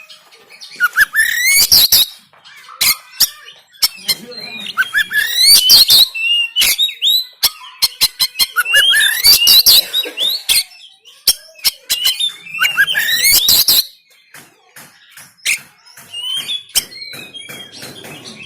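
Oriental magpie-robin (kacer) singing harsh, rapid phrases of sweeping whistles mixed with sharp clicking notes, in four loud bursts with short pauses between, then quieter scattered notes near the end.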